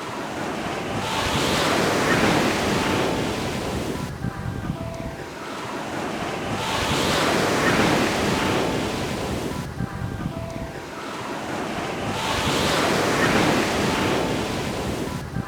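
Ocean waves breaking and washing up a beach: three swells of surf, each rising and ebbing, about every five and a half seconds.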